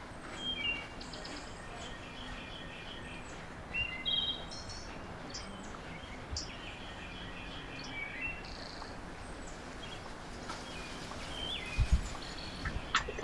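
Small songbirds chirping and calling again and again over a steady background hiss, with a few sharp knocks near the end.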